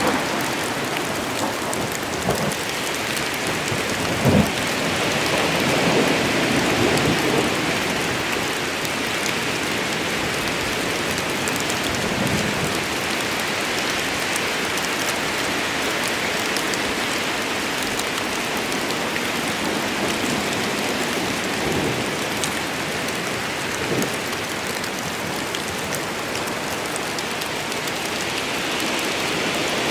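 Steady heavy rain falling in a forest, with a few louder single drops knocking close by, the strongest about four seconds in.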